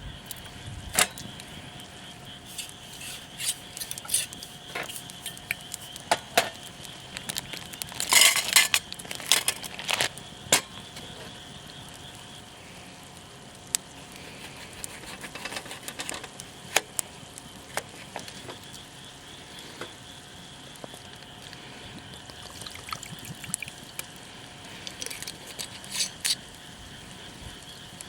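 Scattered light clinks and taps of tableware, with a quick cluster of them about eight to ten seconds in.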